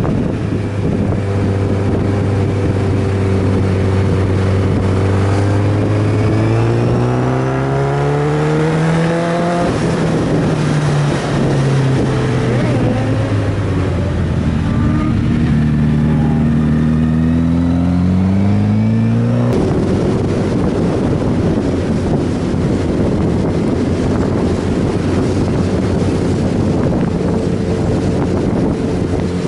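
Inline-four sport motorcycle engine under way, running steadily, then revving up with a rising pitch twice, each climb ending in a sudden drop as the throttle comes off or a gear changes, before settling back to steady running. Wind noise hisses underneath throughout.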